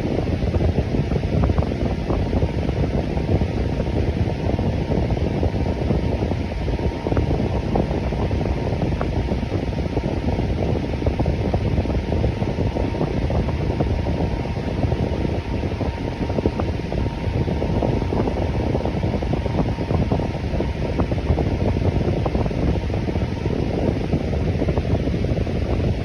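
Fan running steadily: an even rush of air, strongest and deepest in the low range, with a faint steady tone near the top of it.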